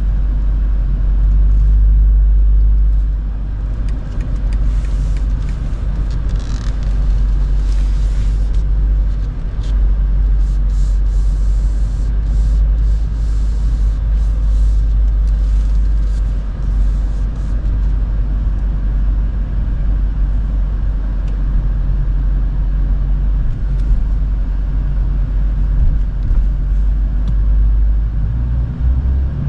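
BMW M8 Competition's twin-turbo V8 with an Akrapovic exhaust and downpipes running at a steady cruise: a deep, even rumble with road noise, without hard revving.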